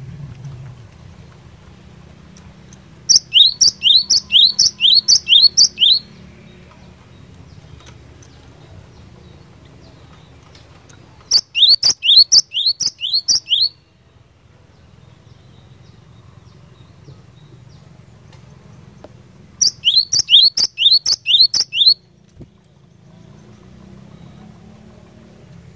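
Cinereous tit (glatik batu) singing three bouts of song, each a rapid string of about six to eight repeated sharp, falling high notes lasting two to three seconds, with pauses of several seconds between bouts.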